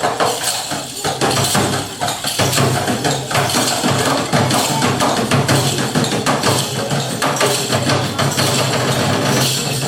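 Live ensemble music: dense, rapid wooden-sounding percussive knocks and clicks over a steady low drone.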